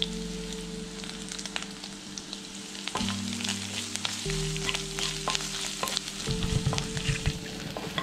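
Curry leaves, green chillies and garlic sizzling in hot oil in a non-stick wok, with sharp crackles and pops throughout and a spoon stirring them. This is the early sauté, frying until the leaves and chillies lose their raw green.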